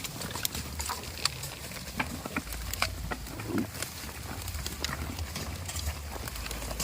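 Goats moving about: scattered light clicks and knocks over a low rumble, with one short pitched sound about halfway through.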